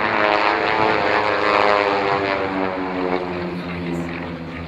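Yak-50 aerobatic aircraft with nine-cylinder radial engines flying past in formation, the propeller and engine note loud and dropping in pitch about halfway through as they pass.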